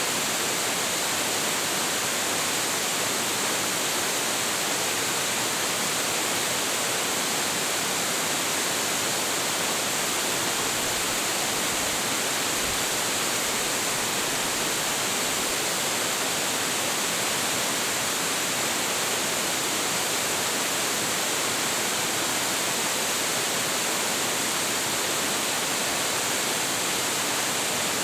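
Hiji Great Falls, a tall, high-flow waterfall, roaring steadily as a dense, even wash of falling water.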